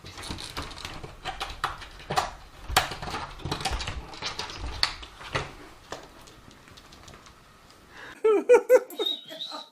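Irregular clattering clicks and knocks for about six seconds. Near the end a dog gives a quick run of short high yips, then a thin high whine.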